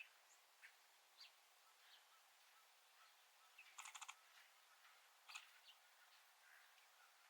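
Faint, scattered chirps and chip calls of small birds at a feeder, with a quick rattle of sharp clicks about four seconds in.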